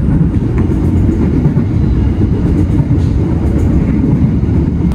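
Passenger train running at speed, heard from inside a coach: a steady, loud low rumble of the wheels and running gear on the track.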